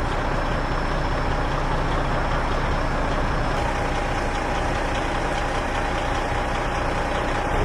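Heavy vehicle engine idling steadily, with a steady whine that starts about halfway through.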